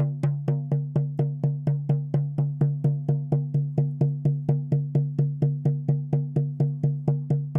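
Shaman's frame drum beaten at a steady pace, about four beats a second, each stroke leaving a low, ringing boom.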